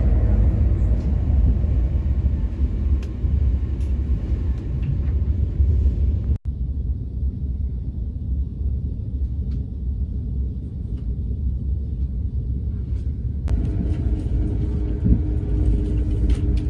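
Steady low rumble of a moving train, heard from inside the carriage. It cuts off abruptly about six seconds in and changes again near the end, as separate clips are joined.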